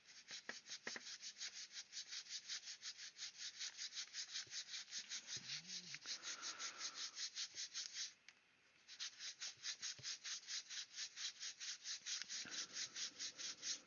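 A small hand abrasive tool rubbed quickly back and forth over the plastic of a model kit, smoothing a glued repair seam, at about six strokes a second. The strokes pause briefly about eight seconds in, then carry on.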